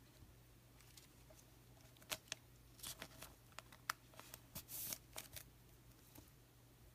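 Faint clicks and short rustles of baseball cards being handled and slid against each other, bunched between about two and five and a half seconds in, over a low steady hum.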